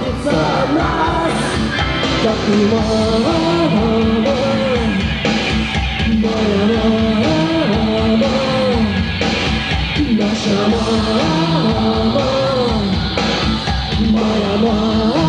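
Live rock band playing a song, with a wavering melody line over a steady bass and drum beat.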